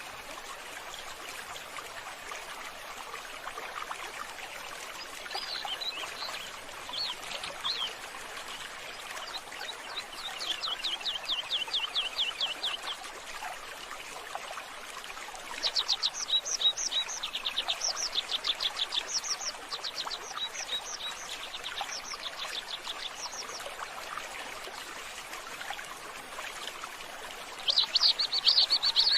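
Small birds chirping in rapid repeated trills, several bouts of quick strokes, the loudest near the middle and at the end, over a steady hiss like trickling water.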